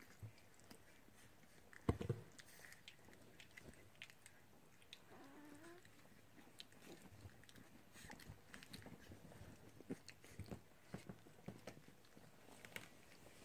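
Puppies playing: faint scattered clicks and chewing sounds, with one louder thump about two seconds in.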